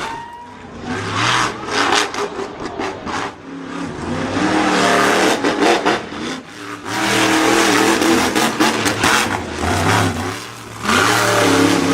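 Monster truck engine revving hard, its pitch rising and falling through repeated bursts of throttle, with short lulls between surges.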